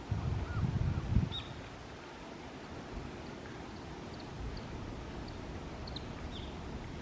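Strong wind buffeting the microphone as a low rumble for about the first second, then steady wind noise with faint, short bird chirps scattered through.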